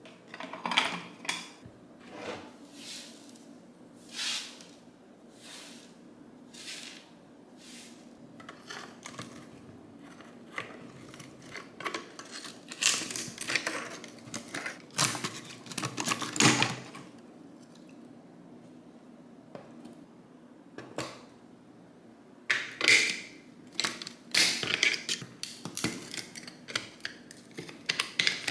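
Intermittent clicks, clatter and scraping swishes of hand work with tools and loose parts, in irregular bursts that come thicker in the middle and near the end.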